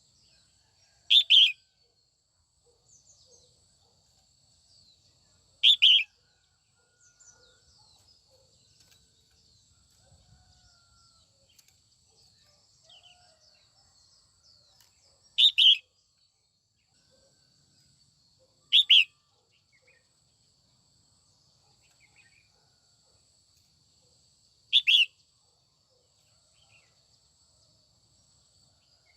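Female red-whiskered bulbul calling: five short, loud two-note calls spaced several seconds apart. Faint chirps and a thin, steady high whine fill the gaps.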